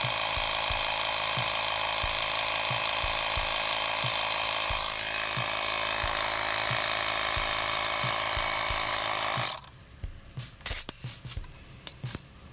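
AUTO-VOX 12V portable tyre inflator running steadily while pumping up a car tyre, then shutting off about nine and a half seconds in. A few short clicks and knocks follow.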